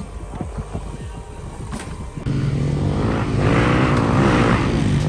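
Small off-road vehicle engine running steadily. It comes in suddenly about two seconds in, over a low rumble, and grows louder a second later.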